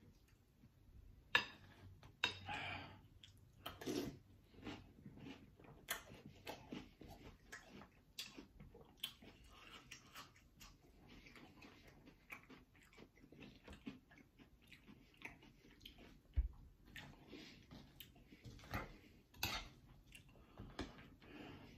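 Faint chewing and crunching of mouthfuls of Cap'n Crunch's Crunch Berries cereal in milk, in irregular short crunches, with a metal spoon clicking against the glass bowl as it scoops.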